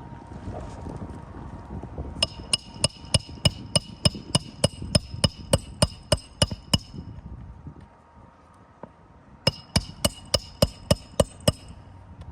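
Hammer blows on metal on a shingle roof, quick and even at about three a second with a ringing tone over each strike: a run of about sixteen, a pause, then about eight more near the end.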